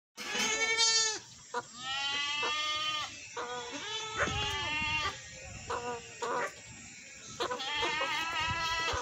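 A flock of sheep bleating: many overlapping calls, some of them quavering, one after another throughout.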